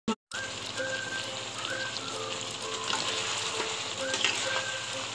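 Chicken wings in a thick chili sauce sizzling in a wok, a steady crackling hiss with small pops.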